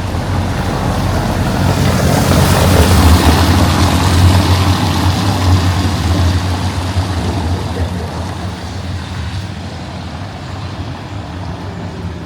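A motor vehicle passing on a wet street. A low engine drone runs underneath, and tyre hiss swells over the first few seconds, is loudest about three to four seconds in, then fades away.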